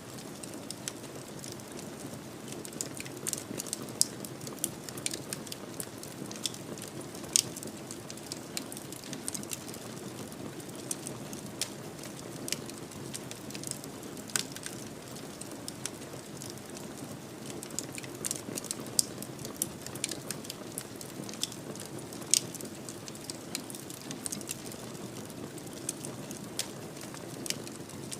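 Fire burning in a fireplace: a steady low rush of flame with irregular crackles and sharp pops, a few louder snaps scattered throughout.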